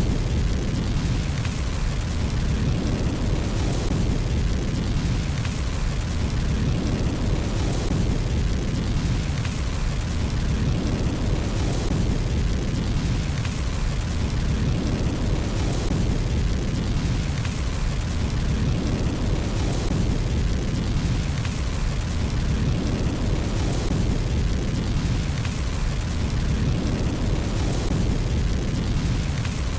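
Burning fireplace fire with a steady low roar. The same pattern recurs about every four seconds, like a short looped recording.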